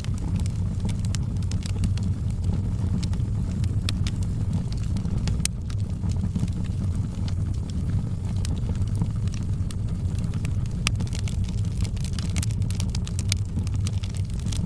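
Wood fire in a fireplace crackling: scattered sharp pops and snaps over a steady low rumble of the flames, with a louder pop about five seconds in and another near eleven seconds.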